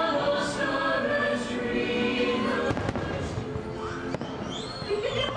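Fireworks show music with voices. About halfway through, several sharp bangs of aerial fireworks shells bursting come in over it.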